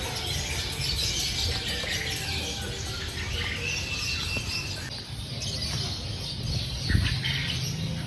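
A chorus of many caged songbirds chirping and twittering at once, over a steady low rumble of background noise. A single short knock comes near the end.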